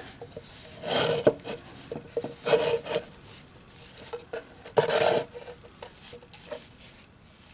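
Shellac finish being rubbed onto the rim of a turned oak bowl: a few separate rubbing strokes on the wood, the strongest about one, two and a half and five seconds in, with fainter ones after.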